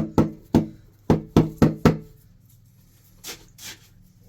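A quick run of sharp knocks, about three to four a second, each with a brief ringing tone; they stop about two seconds in, followed by two fainter, softer sounds.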